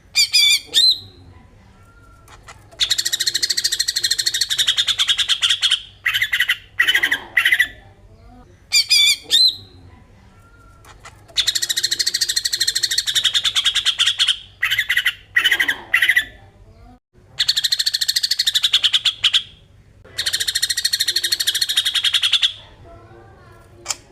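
Cucak ijo (green leafbird) singing its besetan: about four bursts of very fast, rattling chatter, each two to three seconds long, with shorter chirping phrases in between.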